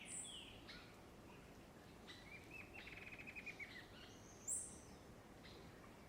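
Several wild birds singing faintly over a quiet background hiss: short falling slurred notes at first, a rapid trill of about a second and a half in the middle, and a sharp high chirp about four and a half seconds in, the loudest sound.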